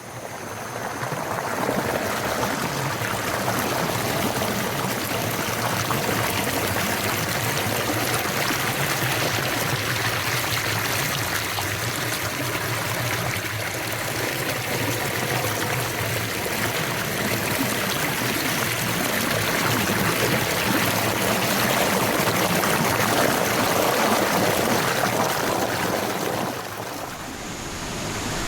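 Rushing stream water, a steady noise that swells in over the first second and a half and dips briefly near the end.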